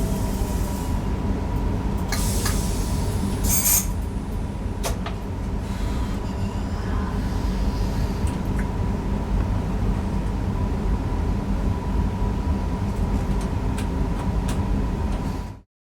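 Newag Impuls EN63 electric multiple unit running along the line, heard from the driver's cab: a steady rumble of wheels on rail with a thin steady whine over it. A few sharp clicks and a short high hiss come about two to four seconds in, and the sound cuts off suddenly near the end.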